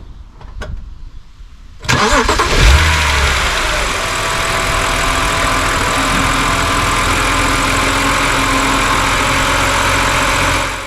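BMW N52 2.5-litre straight-six engine starting on its first run after an oil and filter change: it catches about two seconds in with a loud flare of revs that falls away over a second or so, then settles into a steady idle.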